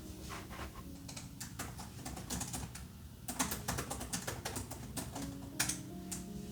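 Typing on a computer keyboard: a quick run of key clicks with short pauses, busiest in the middle. Faint background music plays underneath.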